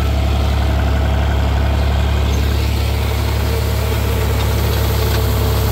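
John Deere 4020 tractor engine running steadily while pulling a hay tedder, a constant low hum with no change in speed.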